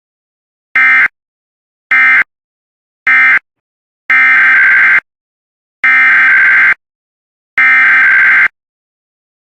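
Emergency Alert System SAME digital data bursts: raspy, buzzy warbling tones. Three short bursts about a second apart, which are the end-of-message code closing the previous alert, are followed by three longer bursts, which are the header codes of the next alert.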